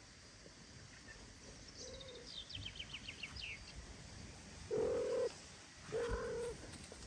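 A songbird singing a quick descending trill of about ten notes, followed by two short level-pitched calls about a second apart, which are the loudest sounds.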